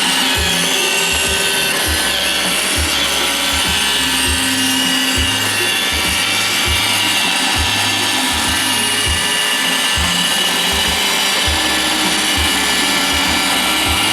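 iRobot Roomba 760 robot vacuum running: a steady, loud motor whine and whir from its vacuum and brushes, having just spun up, with low bumps and hums as it moves.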